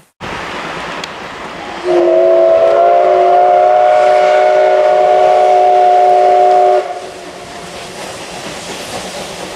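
Steam locomotive whistle of the SL Ginga (C58 239) sounding one long, steady blast of about five seconds, starting about two seconds in, over a continuous hiss of steam and train noise.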